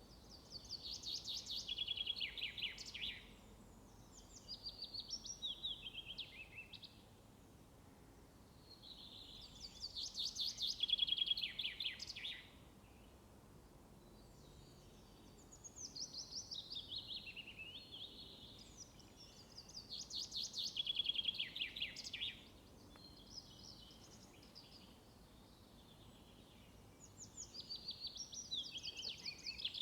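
A small songbird singing over and over, each song a fast trill of notes that falls in pitch over two to three seconds and ends abruptly, repeated every few seconds, over a faint steady outdoor hiss.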